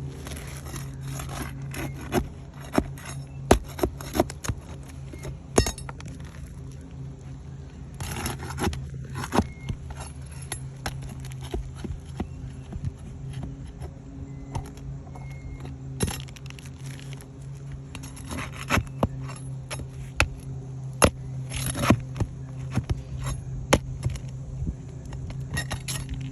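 Hand tools scraping and clinking against roof shingles as a shingle is worked loose, in irregular sharp clicks and short scrapes over a steady low hum.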